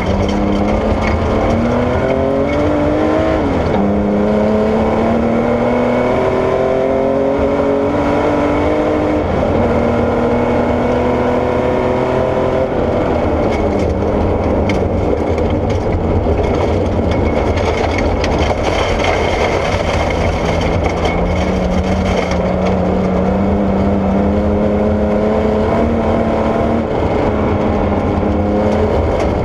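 Porsche 964 rally car's air-cooled flat-six engine being driven hard on gravel. It revs up through the gears with sudden drops in pitch at the shifts, falls away for a few seconds in the middle, then climbs again. Steady heavy road and gravel noise runs underneath.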